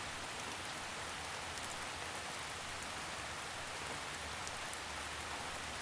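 Steady forest rain, an even hiss of falling rain with a few faint drop ticks.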